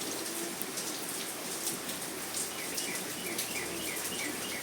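Steady rain falling, with a bird chirping in a run of short repeated notes from about halfway through.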